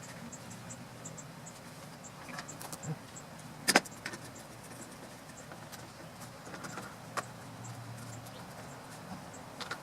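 Scattered light clicks and clinks of hand tools and small engine parts being handled, with one sharp click about four seconds in and another about seven seconds in.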